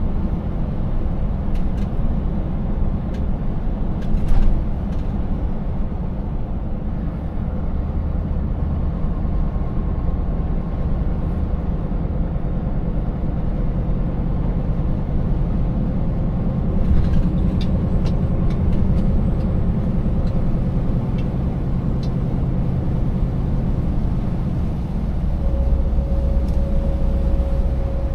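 Scania 590S truck's 16-litre V8 diesel running steadily under way while hauling an empty trailer, with a low rumble. A sharp knock comes about four seconds in and a run of clicks and rattles comes near the middle. A steady whine joins near the end.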